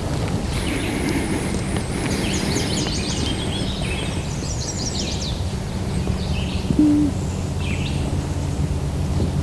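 Songbirds singing and chirping in a spring woodland chorus, with a steady low background rumble. About seven seconds in comes one short, low hoot-like note.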